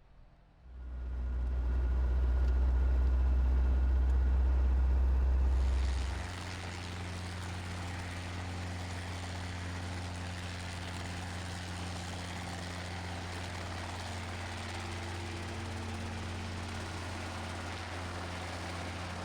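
Helicopter engine and rotor running steadily, heard as a loud low drone that comes in abruptly about a second in. About six seconds in the deepest part of the drone drops away and a steady hiss joins it, continuing as an even hum.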